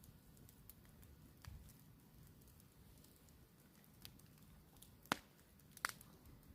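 Campfire crackling faintly, with scattered small pops and two sharper pops about five and six seconds in.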